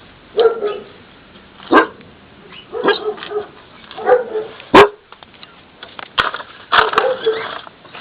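Basset hound barking in short, irregular barks, about seven or eight in all, with the sharpest and loudest near the middle.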